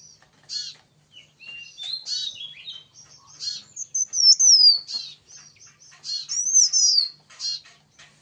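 Cipau jantung (an iora) singing freely: a string of sharp high chirps broken by louder sweeping whistled phrases, loudest about halfway through and again near the end.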